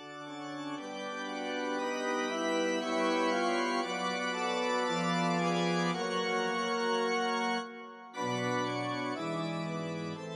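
Organ music: slow, sustained chords with a brief pause about eight seconds in.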